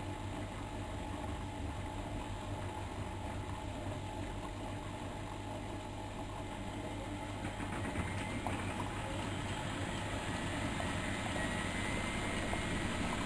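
Miele Novotronic washing machine running steadily with a mechanical hum. About eight seconds in, a faint rising whine comes in and the sound grows slightly louder, as if the drum is picking up speed.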